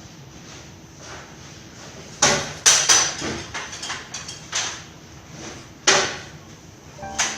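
Several sharp knocks and bangs at uneven intervals, the loudest about two and about six seconds in.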